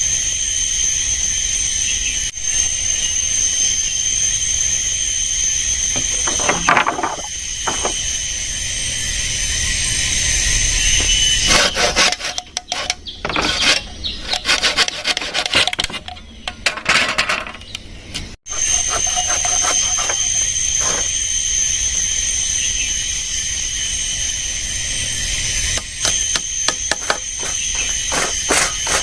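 A loud, steady, high-pitched insect drone of several shrill tones at once, like a forest cicada chorus. For several seconds past the middle it gives way to irregular scraping and knocking, and a run of quick knocks comes near the end.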